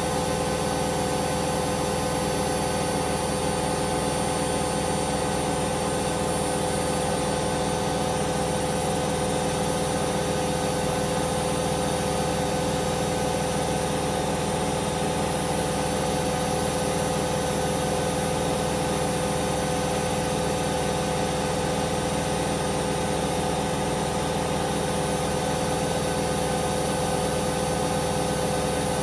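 Hoover Vision Dynamic washing machine spinning at a steady high speed: an even motor whine with several held tones over a drum rush, unchanging throughout.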